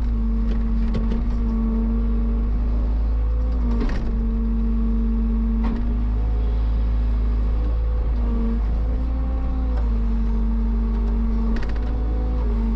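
Heavy machinery engine running steadily with a deep rumble and a constant hum. The pitch sags briefly and recovers about two-thirds of the way through, as under load, and a few sharp clanks sound over it.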